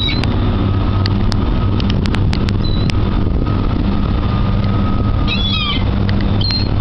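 Gulls calling, with one mewing call of falling notes about five seconds in and a few short high calls, over a steady low rumble.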